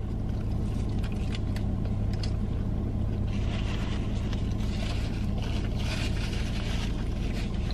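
A steady low hum inside a car with the engine running at idle, with faint chewing clicks from a mouthful of burger in the first couple of seconds.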